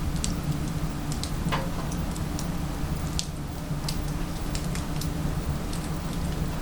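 Wood fire burning in a small wood-burning stove with secondary combustion: scattered sharp crackles and pops at irregular intervals over a steady low hum.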